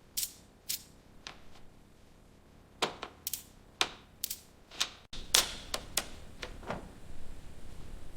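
A series of about fifteen sharp, irregular clicks and taps, spaced a fraction of a second to over a second apart. About five seconds in the sound changes abruptly and a steady low background noise rises under the remaining clicks.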